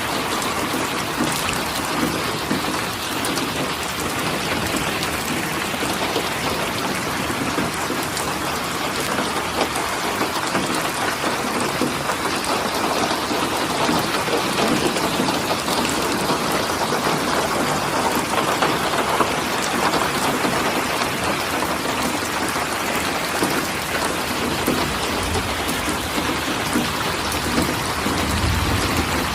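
Steady rain falling, a dense, even patter of drops with no break.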